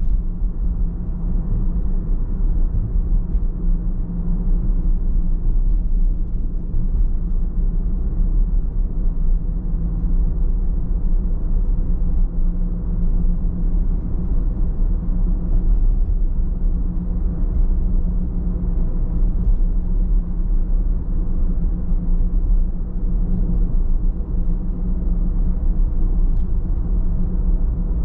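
Steady low rumble of a car driving along at an even pace: road and engine noise with no change in speed.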